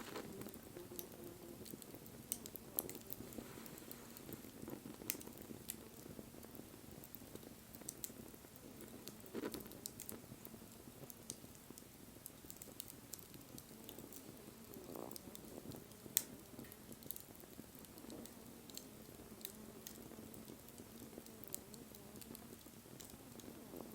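Wood fire burning with faint, scattered crackles and sharp pops over a low steady flame noise, the loudest pop about two-thirds of the way through.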